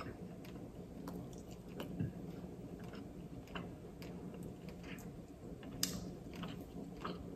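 A person chewing a mouthful of pasta close to the microphone, with small scattered wet mouth clicks. A fork twirls pasta on a plate.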